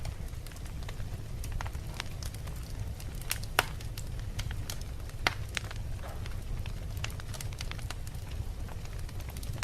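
Wood logs burning in a fireplace, crackling with many irregular sharp pops and snaps over a low, steady rumble of the flames. Two louder pops come about 3.5 and 5 seconds in.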